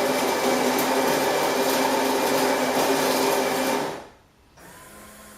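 Built-in coffee grinder of a Carimali Armonia automatic espresso machine running steadily as it grinds fresh beans for an espresso, then stopping about four seconds in. A much fainter steady hum from the machine follows.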